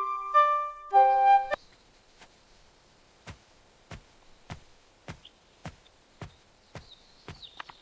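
A flute melody ends about a second and a half in. It is followed by steady, evenly spaced knocks, about two a second. Faint birds chirp near the end.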